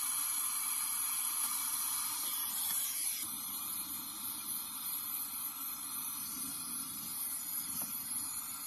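Brazing torch flame hissing steadily as a copper joint on a refrigerator's refrigerant line is brazed.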